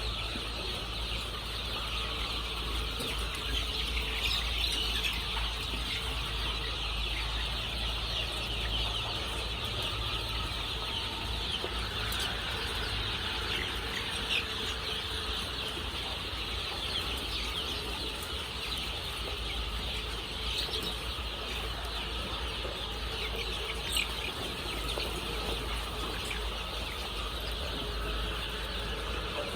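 A large flock of layer chicks peeping continuously in a dense, high chirping chorus, over a steady low hum.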